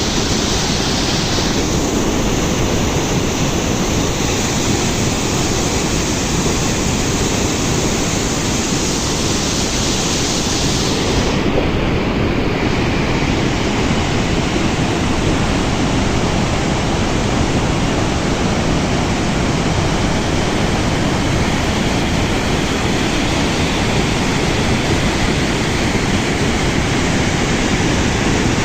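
Waterfall crashing: a steady, loud rush of falling water.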